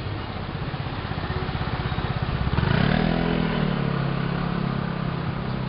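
A motorbike engine passing close by, getting louder to a peak about three seconds in, then holding a steady low hum as it goes on.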